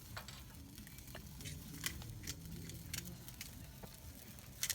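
Fire crackling under grilling skewers: scattered short, sharp pops over a low, steady rumble.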